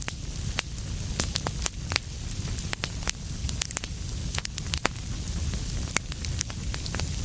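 Wood fire burning in a fireplace: a steady low rumble of flames with frequent irregular sharp crackles and pops, one louder pop about five seconds in.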